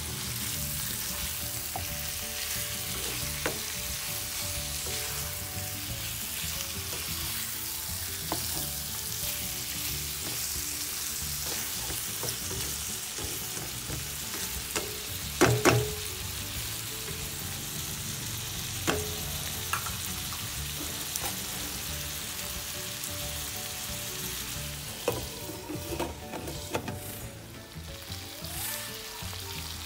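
Chicken pieces sizzling steadily as they fry in a hot pan. A few sharp knocks of a utensil against the pan come about halfway through and again near the end, as the pieces are turned.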